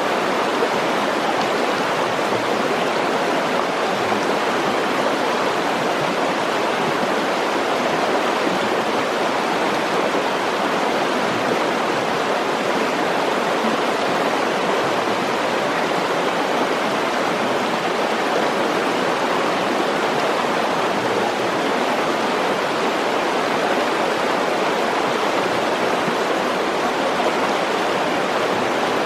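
Mountain stream rushing over rocks, a steady loud rush of water.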